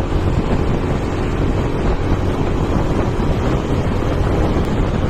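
Heavy wind blowing across the microphone: a loud, steady rush with an uneven, gusty low rumble.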